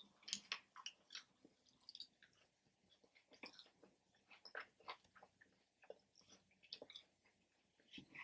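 Faint, close-up chewing of a fried chicken wing: irregular wet mouth clicks and small crunches, with no speech.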